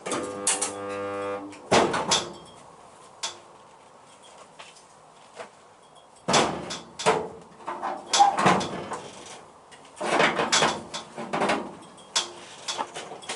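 DIY spot welder buzzing for about a second and a half at the start as it fires a weld into the toe board panel. This is followed by several bursts of metallic clanks and knocks as the welding tongs and panel are handled.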